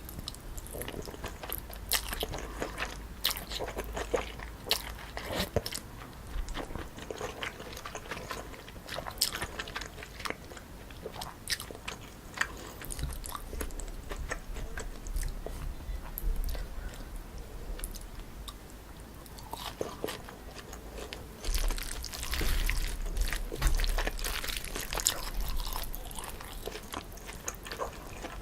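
Close-miked eating sounds: chewing and biting into a meal of chewy cold noodles with crisp toppings, with frequent short crunches and clicks. About three quarters of the way through comes a louder, denser stretch of eating noise.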